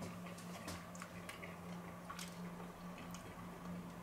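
Soft chewing and wet mouth smacks of someone eating pasta in sauce, with scattered faint clicks, over a steady low hum.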